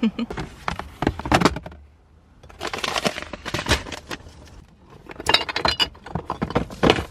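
Rummaging through food containers and jars: irregular clicks, clinks and rustling in three clusters, with a short ringing clink about five seconds in.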